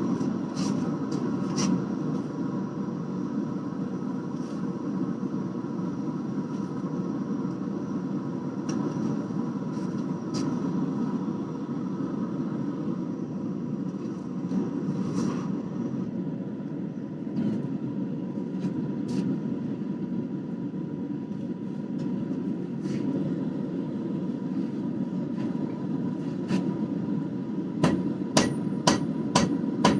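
Forge running with a steady roar, with occasional clicks. Near the end, light hammer blows on the hot twisted damascus bar begin at about three a second, the start of lightly forge welding the seams of the twist.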